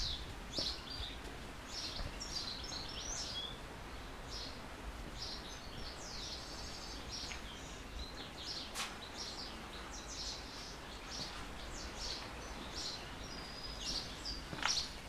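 Many small birds chirping and twittering in quick, high calls, over a steady low rumble, with a couple of sharp clicks about nine seconds in and near the end.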